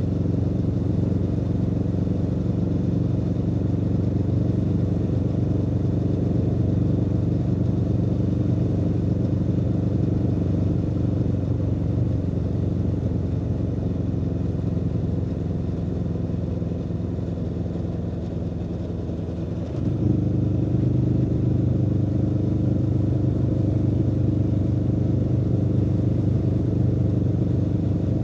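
Aprilia Tuono V4 motorcycle's V4 engine running steadily under way, easing off slightly before the throttle opens sharply about two-thirds of the way through and it pulls louder.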